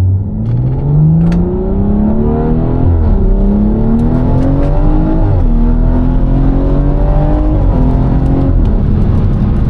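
BMW 340i's turbocharged inline-six, breathing through a catless downpipe and valvetronic exhaust, accelerating hard: the pitch climbs, drops sharply at two quick upshifts about a quarter and half of the way in, then holds nearly steady and drops again near the end.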